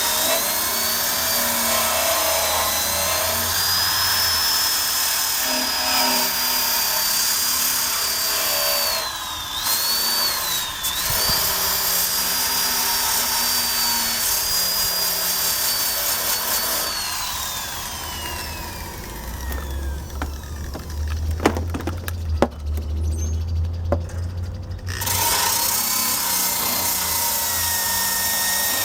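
Electric drill spinning a wire brush against the Honda Cub's frame, its high motor whine sagging briefly as the bristles bite. About two-thirds of the way through the motor winds down and stops, a few sharp knocks follow, and it starts up again near the end.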